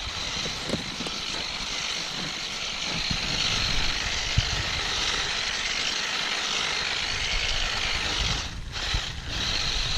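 Toy remote-control car's electric motor running at speed, a steady whirring hiss with a faint high whine, its wheels spinning over ice and snow; it cuts out briefly twice near the end.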